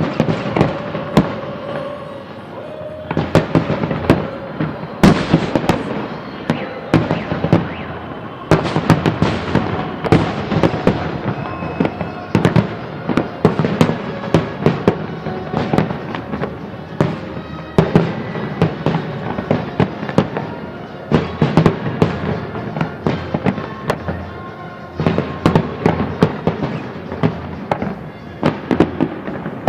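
Fireworks salute: dense volleys of bangs and crackling bursts, several a second, with short lulls about 3 and 8 seconds in.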